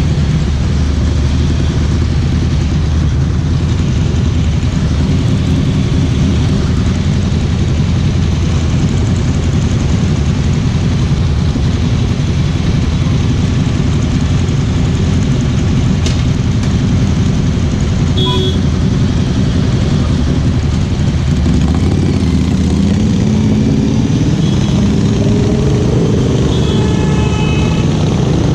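Ducati Scrambler Cafe Racer's air-cooled L-twin engine and exhaust running while riding, a steady low drone. In the last third the pitch rises as the bike speeds up.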